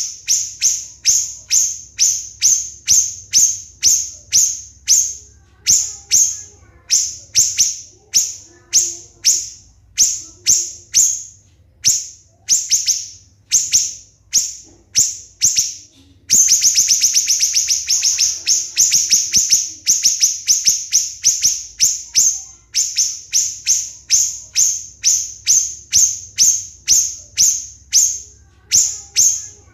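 Siri-siri bird calling: a steady series of sharp, high-pitched notes at about two a second. A little past halfway the notes run together into a fast, continuous rattle for about six seconds, then the separate notes resume.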